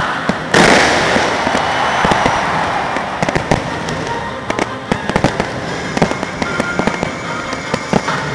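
Fireworks going off: a loud bang about half a second in, trailing into a long fading crackle, then a run of sharp pops and crackles.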